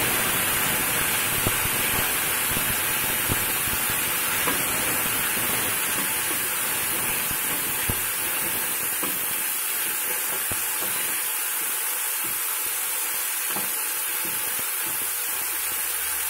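Chopped tomatoes frying in hot oil in a nonstick kadai, a steady sizzle as they are stirred with a spatula, with a few light knocks of the spatula against the pan in the first half.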